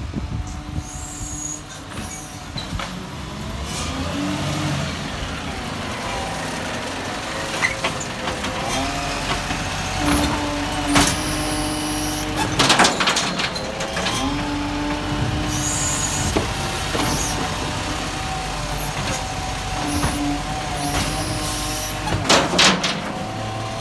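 Garbage truck at work: the engine running, a steady whine that starts and stops several times as the hydraulics operate, short bursts of air hiss, and a few loud clunks.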